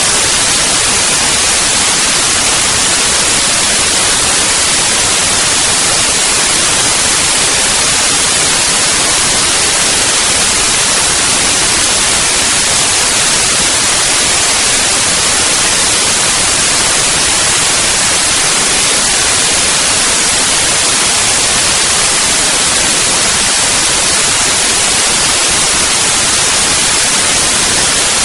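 Loud, steady hiss, even and unchanging, strongest in the high range.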